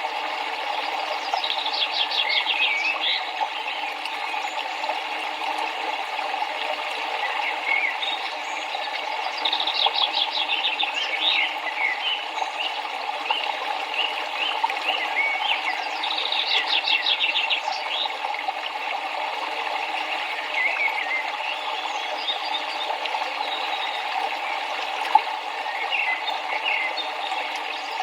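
Steady rushing of river water, with a songbird singing a short, fast trill of repeated high notes every several seconds and other birds chirping now and then.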